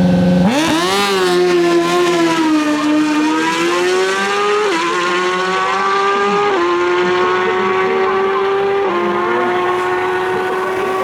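Stock sportbike drag-racing motorcycle launching hard off the line: the engine jumps from a steady held rev to climbing revs about half a second in, then upshifts three times, each a sudden drop in pitch before it climbs again.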